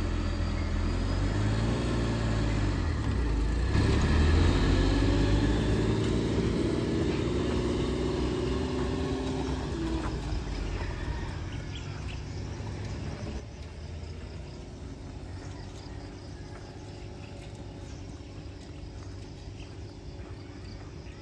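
A motor vehicle engine runs close by, rising in pitch over the first few seconds, then fading away. By about 13 seconds in it is gone, leaving quieter outdoor background.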